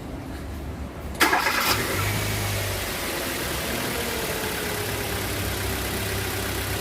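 Four-cylinder car engine cranked and started about a second in, running a little fast at first, then settling into a steady idle. It has four new ignition coils and spark plugs fitted, and the idle is even, without the rough idle that the misfire caused.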